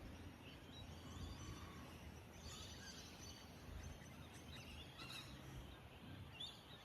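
Faint outdoor ambience with a few short, distant bird chirps.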